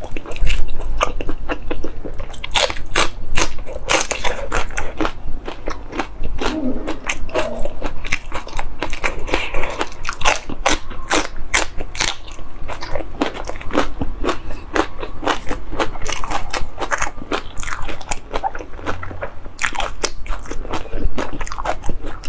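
Close-miked chewing and biting: a continuous run of wet, crunchy clicks and smacks from a person eating pork dishes with mouth close to the microphone.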